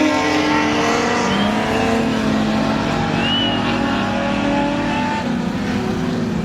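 Several stock car engines running hard together on the track, their notes overlapping and shifting slowly in pitch as the cars race. A short high squeal cuts through about three seconds in.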